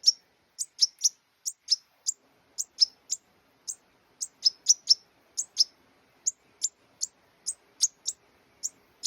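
Young goldfinch chirping steadily on a perch: short, very high chirps repeated about three times a second.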